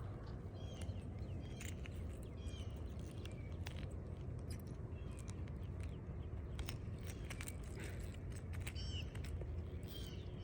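Small birds chirping repeatedly over a steady low rumble, with scattered sharp clicks.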